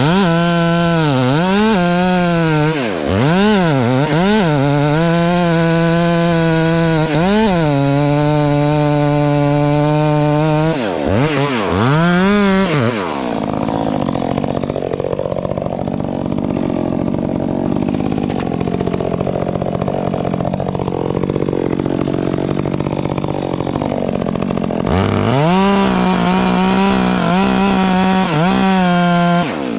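Two-stroke chainsaw revved hard in repeated throttle blips, its pitch dropping and climbing. For about eleven seconds in the middle it runs lower and rougher, as a saw does when pulled down under load while cutting wood. It then revs high and steady again near the end.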